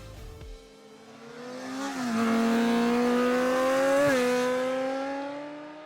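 A motor vehicle's engine accelerating past, its pitch climbing and dropping twice as it shifts gear, growing louder and then fading away.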